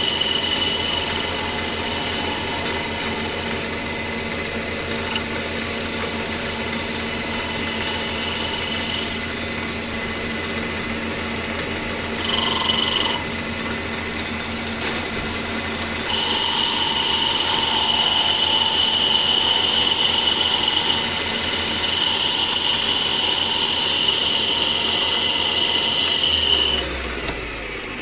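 An electric power tool's motor running steadily, with a hissing cutting or sanding noise that drops away and returns several times and is loudest through the second half. Near the end the tool winds down.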